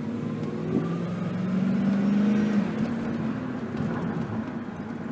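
1996 Ford Mustang GT's 4.6-litre V8, breathing through MagnaFlow mufflers, accelerating: the engine note rises for about two and a half seconds, then eases to a steadier pull.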